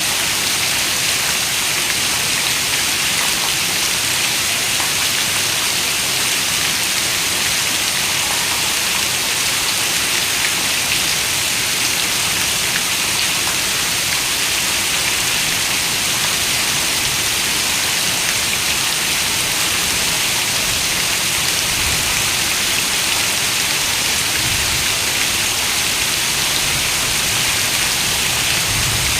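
Heavy rain falling on a window, a steady dense hiss of many drops. A few soft low rumbles come in over the last third.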